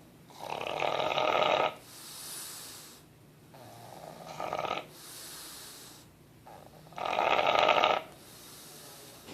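Sleeping bulldog snoring: three loud snores about three seconds apart, each followed by a softer, airy breath.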